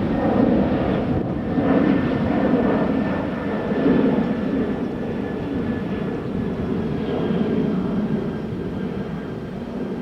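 Jet airliner's engines running loud as it passes along the runway: a deep, steady rush with a thin whine on top, easing off slightly near the end.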